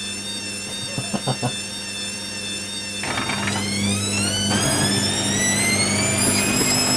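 Hoover WDYNS654D washer dryer's drum motor whining as the drum speeds up, rising steadily in pitch from about three seconds in. It follows a few knocks from the drum while the machine tries to balance its load.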